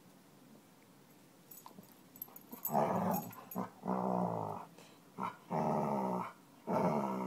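Dog growling in a string of five drawn-out growls, starting a few seconds in: a warning growl of displeasure at a new kitten.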